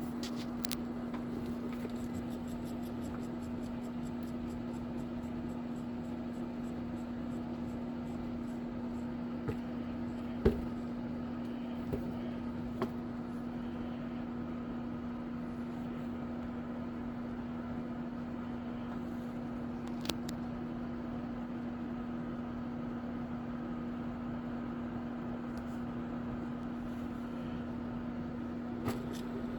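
A steady low mechanical hum with a few scattered clicks; the loudest knock comes about ten seconds in.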